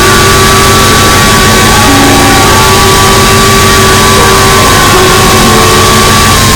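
Harsh noise music: a loud, unbroken wall of distorted static filling every frequency, with a few steady held tones running through it, some shifting pitch in small steps.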